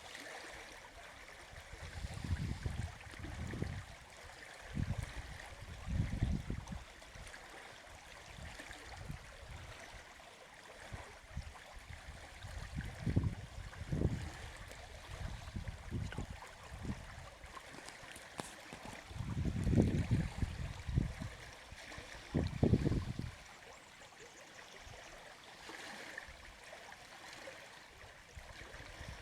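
Outback creek flowing steadily, running 15–20 cm above normal after rain, with a constant rushing and trickling of water. Low rumbles come and go several times over it, the strongest about two-thirds of the way through.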